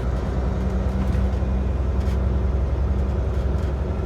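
Truck engine running steadily while the truck drives along, a continuous low drone with road noise.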